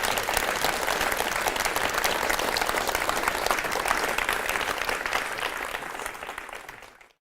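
Audience applauding, a dense even clapping that fades away over the last second or so and stops just before the end.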